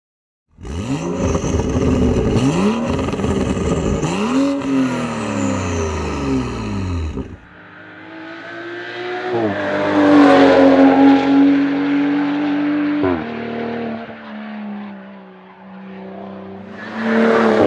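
BMW M235i Racing's turbocharged straight-six engine through its racing exhaust, revved up and down several times in quick sweeps. After about seven seconds there is a cut to the car driving on track: it grows louder, drops in pitch twice as it shifts or passes, and fades. A loud engine comes in again near the end.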